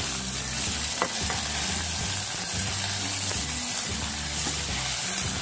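Sliced leeks and a little onion sizzling steadily in hot oil in a pan as they are sautéed until fragrant and wilted, stirred with a silicone spatula; a single tap about a second in.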